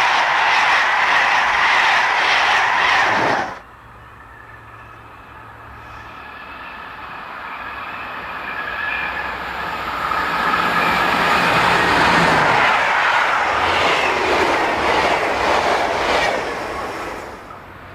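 Loud passing-train noise that cuts off suddenly about three and a half seconds in. Then a EuroCity express approaches, growing steadily louder: an SNCF BB 26000 electric locomotive hauling Swiss SBB coaches passes at speed and fades near the end.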